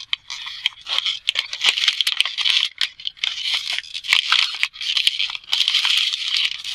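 Flattened plastic water bottle crinkling and crackling as it is folded and worked through a bicycle's wheel bar: a run of short, irregular crackles with brief pauses.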